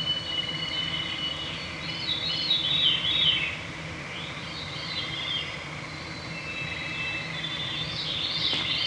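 Woodland songbirds singing over a steady hum of mosquitoes: thin held whistled notes and three swirling, downward-spiralling song phrases, the loudest about two and a half seconds in and near the end.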